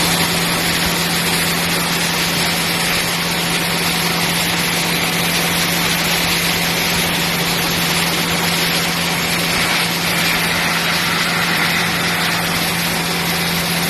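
An engine or motor running steadily: a constant low hum under a strong, even hiss.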